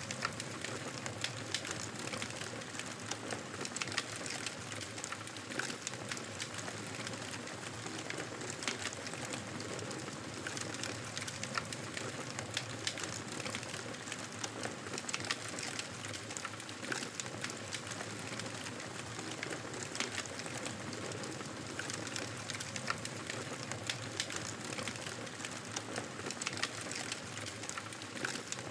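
Campfire burning: a steady hiss of flames with frequent, irregular sharp crackles and pops from the burning wood.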